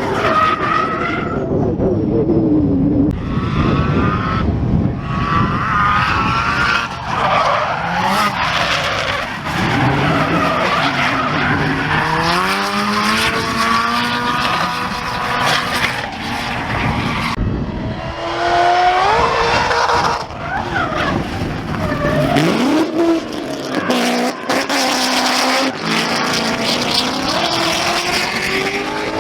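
Drift cars running, their engines revving up and down repeatedly as the tyres squeal and skid.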